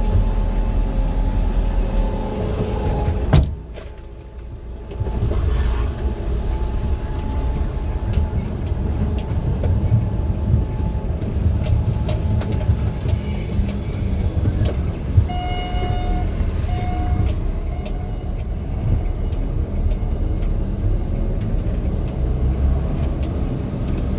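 A road vehicle driving, with steady low engine and road rumble. It drops away briefly after a sharp click a few seconds in, and two short beeps sound about two-thirds of the way through.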